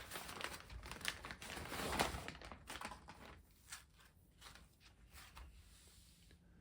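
A package being opened by hand: packaging crinkling and tearing, with scattered small clicks. It is loudest about two seconds in and thins to sparse handling noises toward the end.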